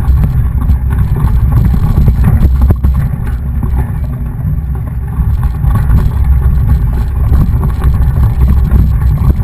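Loud low rumble of wind buffeting the microphone and tyre noise from a mountain bike being ridden, easing for a couple of seconds about three seconds in.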